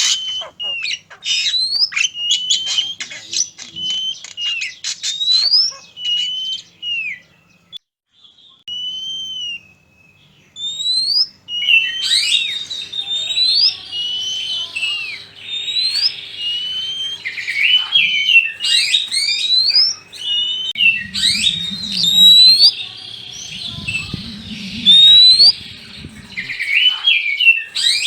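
Oriental magpie-robin song: a fast, dense run of whistles, chirps and rising and falling notes. The song thins to a few separate whistles about eight seconds in, then resumes as dense as before.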